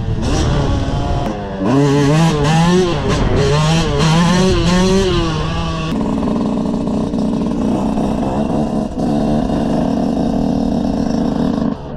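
Dirt bike engine, heard from the rider's helmet, revving up and down with the throttle for a few seconds. From about halfway in it runs steadily at low revs as the bike rolls slowly.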